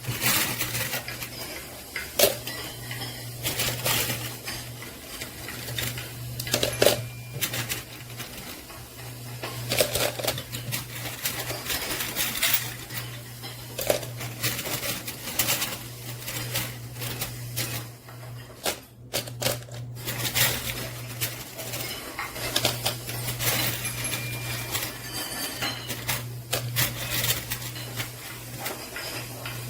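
Coins and chips clinking and clattering at a coin pusher arcade machine, many separate clinks scattered throughout, over a steady low machine hum.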